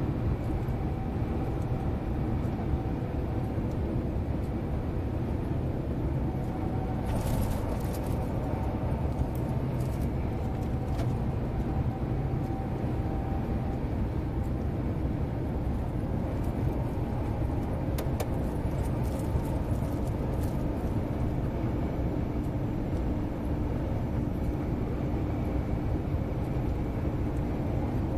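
Scania 143M 470's V8 diesel engine running steadily with a deep, even rumble, with a few faint clicks over it.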